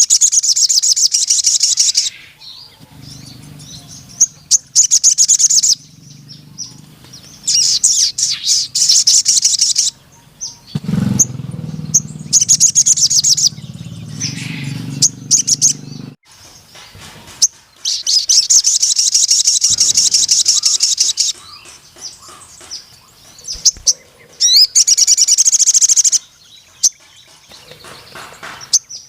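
Sogon sunbird singing in rapid, high trilling phrases of one to three seconds each, repeated about seven times with short pauses between. A low steady hum runs underneath through the middle stretch.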